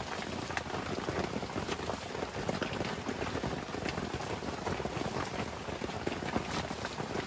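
Rain falling steadily: an even hiss of many small pattering drops.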